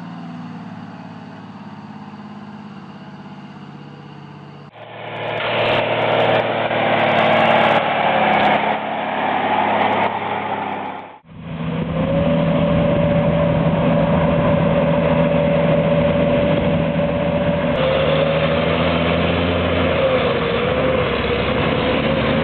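Heavy truck engines labouring through mud, heard in separate clips. A quieter engine plays for the first few seconds, then louder engine noise follows. After an abrupt cut about eleven seconds in comes a steady engine note with a high whine that wavers near the end.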